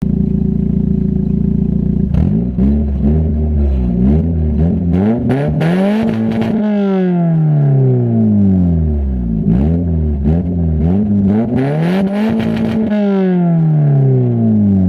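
Nissan Primera's 2.0 SR20 four-cylinder engine, breathing through an exhaust with holes in it, idles steadily, then is blipped repeatedly. Twice it is revved higher and left to fall back slowly, about six seconds in and again near the end. Sharp crackles come through during the revs.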